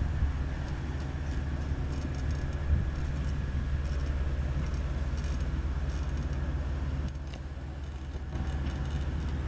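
Diesel engine of a Komatsu GD555 motor grader running steadily, with a short knock nearly three seconds in and the engine note dipping for about a second near the end.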